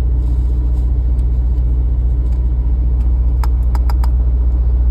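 Steady low drone of an idling truck engine. About three and a half seconds in comes a quick run of four sharp clicks.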